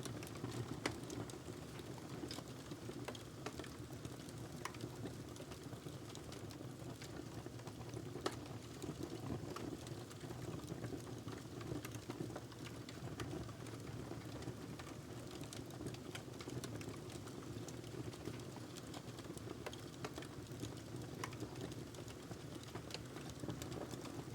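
Logs burning in a fireplace, crackling with frequent irregular sharp pops and snaps over a steady low rumble of the flames. A louder pop comes about a second in and another around eight seconds in.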